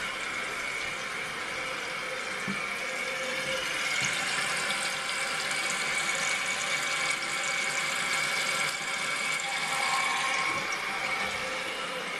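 Toilet tank refilling after a flush: water hissing steadily through the fill valve, with a thin whistling tone over the hiss.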